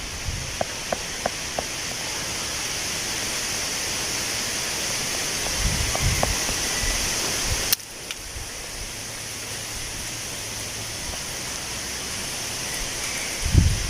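Wind blowing through tree leaves: a steady rustling hiss, with low gusts buffeting the microphone around the middle and near the end. A few short faint calls early on and one sharp click a little past halfway.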